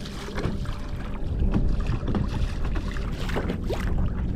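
Water slapping and knocking against a kayak's hull as it moves, with a low rumble of wind on the microphone.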